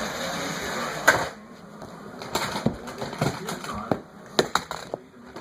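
Pull-back toy car's spring motor whirring as it runs, ending in a sharp knock about a second in as it hits something. After that, a string of light plastic clicks and clatters from the toy cars being handled.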